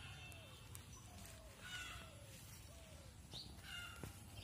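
Faint bird calls: a series of short falling whistles, roughly one every half second for the first few seconds, with a few higher chirps, over low background noise.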